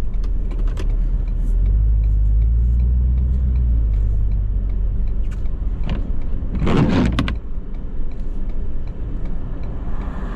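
Ford 6.7 L Power Stroke V8 diesel in an F-350 running under load while plowing snow, a heavy low rumble that swells for a couple of seconds near the start. A brief loud noise just before the seven-second mark.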